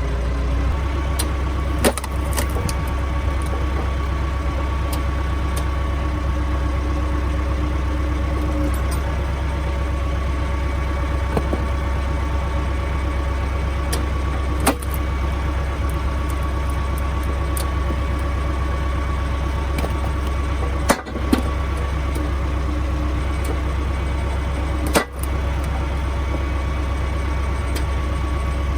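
Renault 75-14 S tractor's diesel engine running steadily, driving the hydraulic log splitter, with a few sharp knocks now and then as logs are split and handled.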